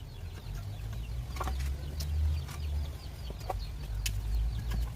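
Pieces of firewood knocking against each other and the stones as they are laid down for a three-stone fire, a few separate sharp knocks over a steady low rumble.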